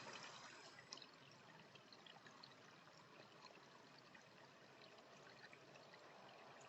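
Faint steady trickle of running water, with scattered faint high ticks over it.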